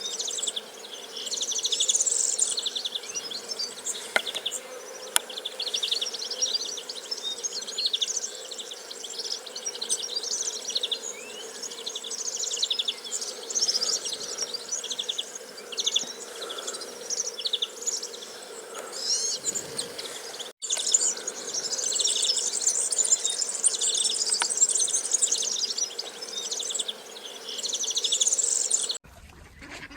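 A dense chorus of insects chirping high and fast without pause, broken by a split-second dropout about two-thirds of the way through and cutting off near the end.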